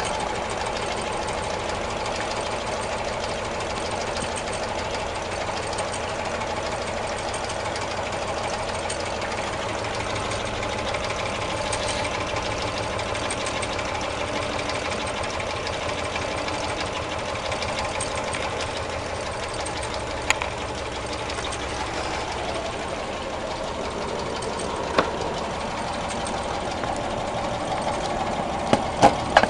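Home-made four-cylinder double-acting alpha Stirling engine running steadily with an even, rhythmic mechanical sound. A few sharp clicks come in the second half, more of them near the end.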